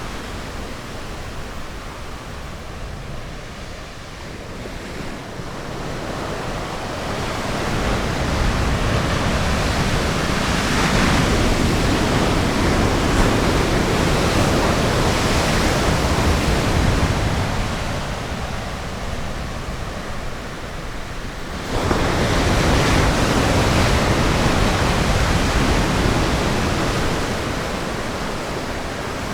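Ocean surf washing onto a beach: a steady rush of wave noise that swells and ebbs over several seconds, rising again abruptly about three-quarters of the way through.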